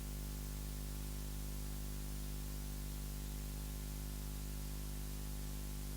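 Steady low electrical hum with an even hiss underneath, unchanging throughout.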